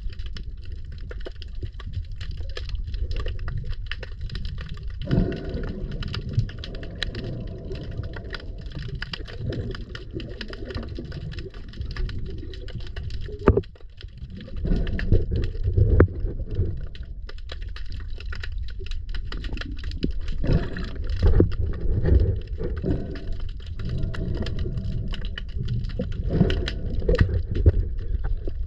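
Water noise with a constant low rumble, bubbling and many small crackling clicks, like a camera recording underwater along a seawall.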